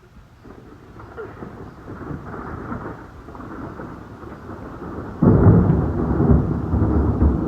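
Thunder rumbling, growing louder, then a loud close clap about five seconds in that goes on rumbling.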